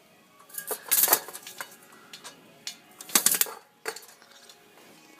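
A scattered series of sharp clinks and knocks, with the loudest clusters about a second in and again around three seconds in.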